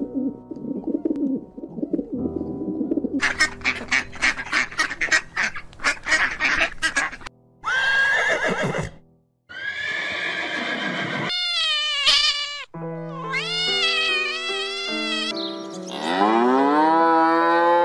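A flock of pigeons flapping their wings in a rapid clatter, then a horse whinnying several times, then a cow mooing near the end, all over light background music.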